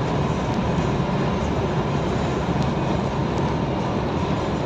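Steady engine and road noise inside the cab of a truck driving on the highway, an even drone with no change in level.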